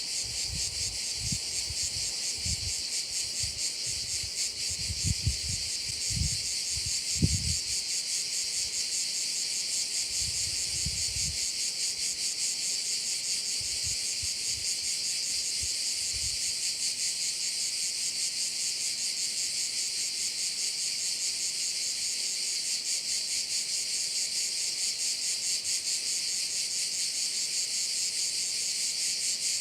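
A dense, steady chorus of crickets chirring, high-pitched and finely pulsing without a break. Scattered low thumps and rumbles come through in the first half.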